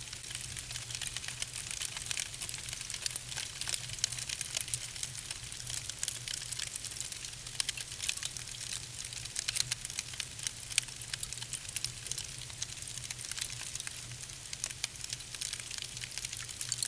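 Wood logs burning in a fireplace: a steady crackle of many sharp pops and snaps over a soft hiss, with a low steady rumble underneath.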